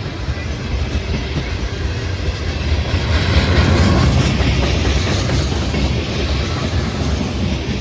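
Freight train rolling past on the track, steel wheels on rail with a steady low rumble that grows louder around the middle.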